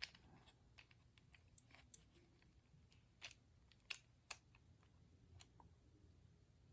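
Faint, scattered clicks and taps of small plastic toy parts being handled and fitted together, with a few sharper clicks in the middle.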